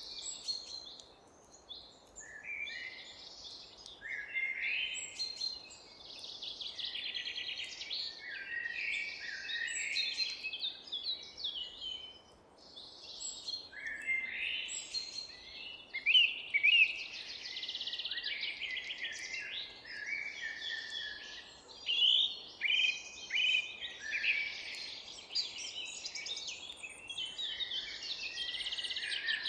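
Several songbirds singing and chirping together in a forest, overlapping rapid trills and high chirps with brief lulls, over a faint steady background hiss.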